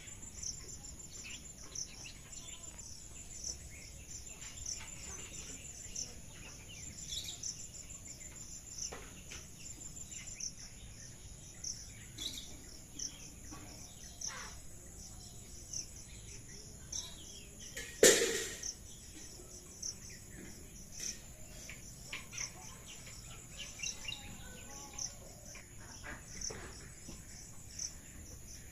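Insects chirping in a steady high, rapidly pulsing chorus, with scattered short bird calls. About two-thirds of the way through comes one brief, much louder noise.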